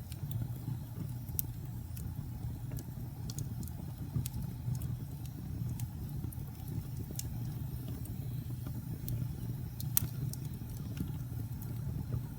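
Wood logs burning in a fireplace: a steady low roar of the flames with scattered sharp crackles and pops, one louder pop about ten seconds in.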